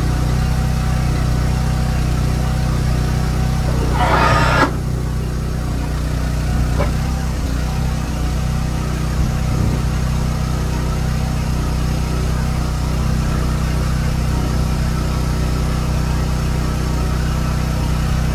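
Big truck's diesel engine idling steadily, with a brief louder burst of noise about four seconds in.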